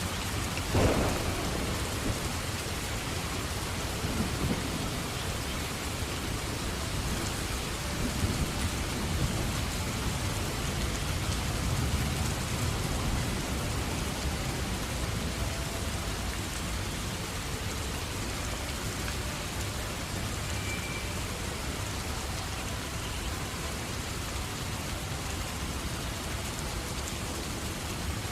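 Steady rain with thunder. A sharp thunderclap comes about a second in, then lower rumbles roll in several more times over the next dozen seconds, under a constant hiss of rain.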